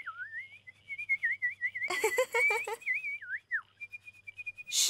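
Cartoon birds whistling and warbling: a wavering whistled line with quick trills and dips, broken about two seconds in by a short burst of squeaky chatter. A loud hiss starts right at the end.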